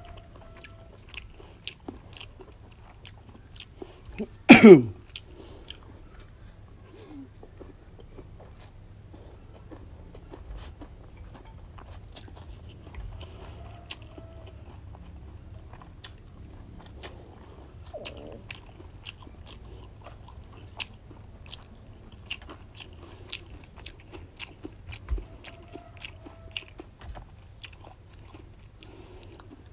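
Close-up chewing and crunching of fried rice noodles with bean sprouts and raw greens, with many small wet mouth clicks. There is one loud, short sound with falling pitch about four and a half seconds in.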